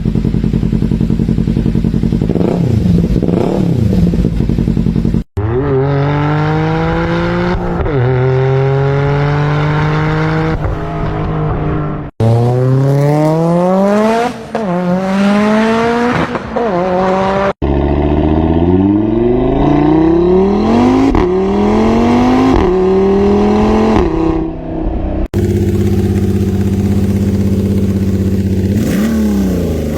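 Inline-engine cars accelerating hard, one recording after another. Each engine's pitch climbs and drops back again and again as it revs up through the gears, with abrupt cuts between recordings about every five to seven seconds.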